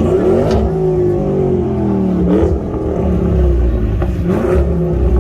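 Car engine revving, its pitch climbing and falling back several times: near the start, about two and a half seconds in, and again about four seconds in, over a deep steady rumble.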